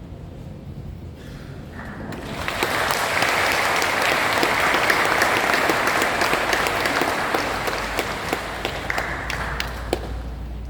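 Audience applauding after a choir's performance, the clapping swelling up about two seconds in and dying away toward the end.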